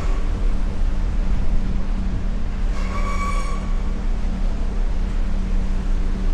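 Steady low engine hum, with a short high-pitched squeal about three seconds in.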